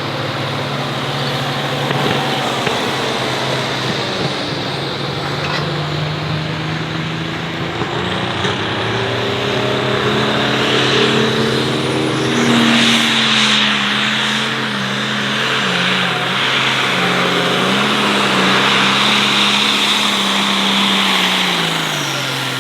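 International Harvester 1066 light pro stock pulling tractor's diesel engine running hard under load: a steady drone that climbs in pitch about eight to twelve seconds in, wavers up and down, and drops away near the end.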